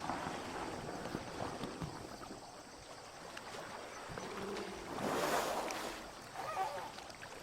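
Water flowing and splashing, swelling louder for about a second around five seconds in.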